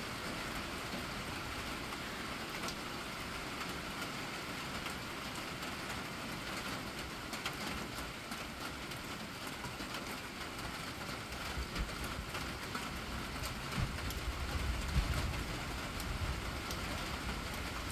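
Steady heavy rain falling on wet pavement and grass, a continuous even hiss. A low rumble swells and fades about two-thirds of the way through, with a few soft knocks.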